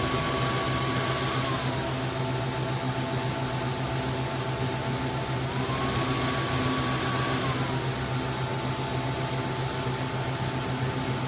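Roborock F25 ACE wet/dry floor cleaner's motor running with a steady hum. Its whine steps up in pitch and back down twice, staying higher for about two seconds each time.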